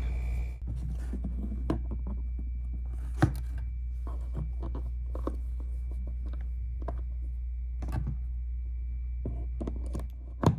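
Scattered light clicks and taps in a small room, the sharpest about three seconds in and near the end, over a steady low hum and a faint high whine.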